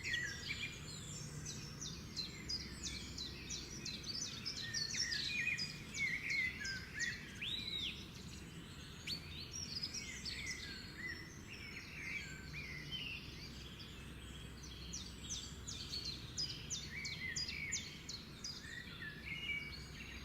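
Several birds chirping and calling, many short quick notes and a few rising and falling whistles overlapping without pause, over a steady low background rumble.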